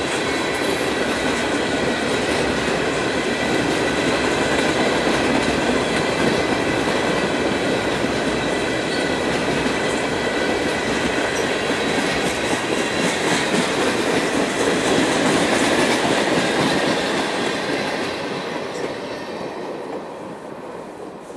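Freight train of tank cars and covered hoppers rolling past, wheels running on the rails with a steady thin high whine. The noise fades away near the end as the last car passes.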